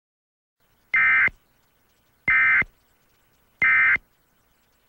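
Emergency Alert System end-of-message signal: three short bursts of SAME digital data tones, a harsh electronic warble about a second and a quarter apart, marking the close of the alert.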